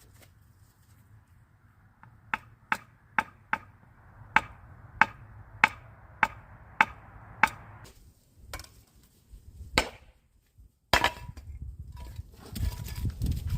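Hammer striking wood: about ten sharp blows in a steady rhythm, roughly two a second, then two slower blows, followed near the end by a louder clatter.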